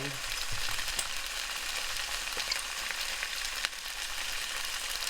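Onion and bell pepper strips sizzling steadily in hot olive oil in a frying pan, with small scattered crackles.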